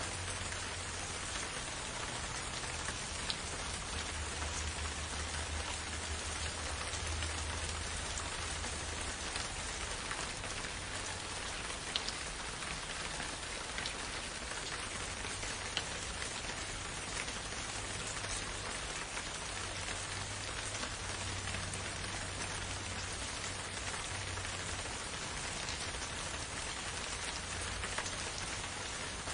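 Steady rain falling in a forest, an even hiss with scattered individual drops ticking, over a continuous low rumble.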